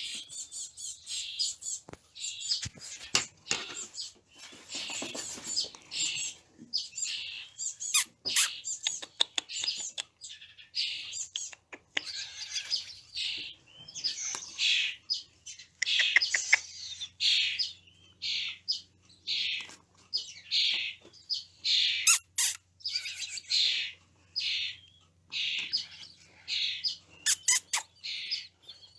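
Baby birds begging with rapid, repeated high-pitched cheeps, the chorus of nestlings calling to be fed, with a few sharp clicks mixed in.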